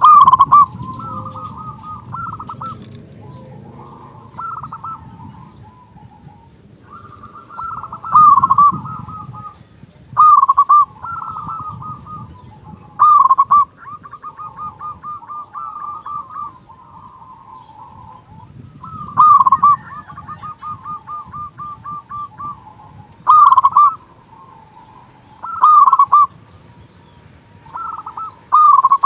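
Zebra doves (perkutut) calling over and over: rolling, trilled coos with loud, ringing kung notes every two to three seconds.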